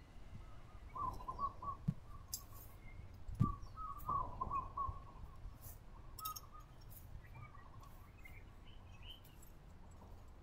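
Birds chirping in short phrases of quick repeated notes, coming back every second or two over a low background rumble. Two soft thumps stand out about two and three and a half seconds in.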